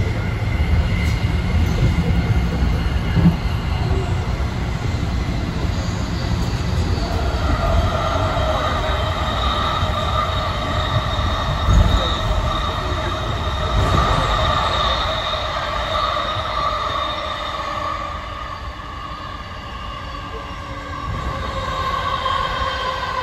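AirTrain JFK linear-induction-motor train running on its guideway, heard from inside the car, with a steady low rumble and two brief thumps. About a third of the way in, several high steady squealing tones come in as the wheels take a curve, falling slightly in pitch near the end.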